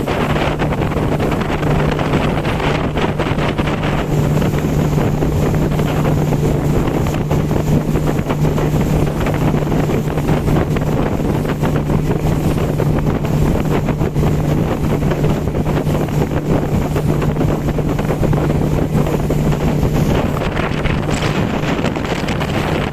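Motorboat engine running with a steady low hum, mixed with heavy wind buffeting the microphone and water rushing past. The hum weakens near the end.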